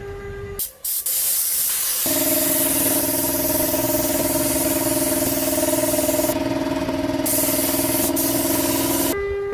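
Spray gun hissing steadily as it sprays finish, starting about two seconds in and stopping near the end, after a short spray burst about half a second in.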